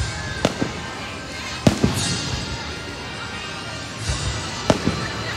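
Aerial firework shells bursting with sharp bangs: one about half a second in, two in quick succession near two seconds, and another quick pair near the end.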